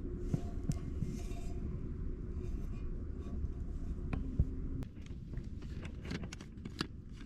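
Camp cookware being handled while rice is prepared in a cooker: scattered small clicks and knocks over a steady low rumble, coming more often in the second half.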